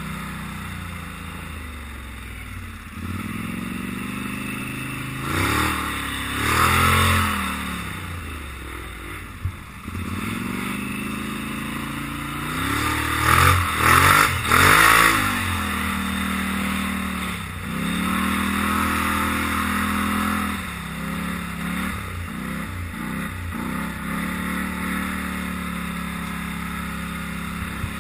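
Polaris Sportsman 850 XP ATV engine running. It idles and is revved up and down: once a few seconds in, several quick blips about halfway, then a string of shorter blips before settling back to idle.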